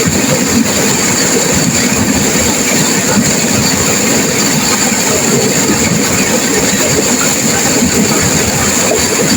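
Turbulent river water rushing and crashing over rapids in a loud, steady roar.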